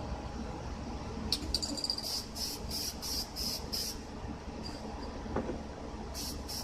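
Insect calling in a rhythmic series of short high-pitched chirps, about three a second, starting about a second in and returning near the end, over a low steady hum.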